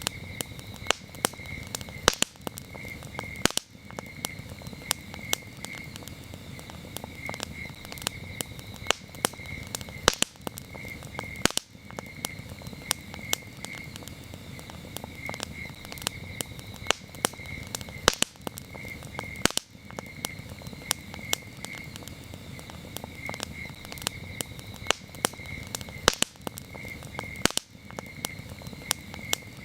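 Wood campfire crackling, with irregular sharp pops, over a steady chorus of crickets chirping in quick pulsed trills.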